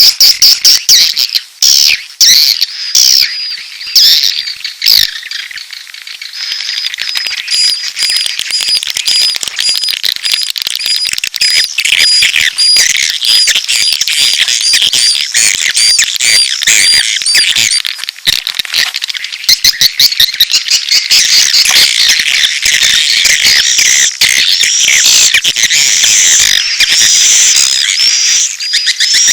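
Swiftlet lure recording of edible-nest swiftlets: a dense, loud chorus of high chirps and twittering mating calls mixed with chick calls, with sharp clicks throughout. From several seconds in, a short high chirp repeats evenly for about ten seconds.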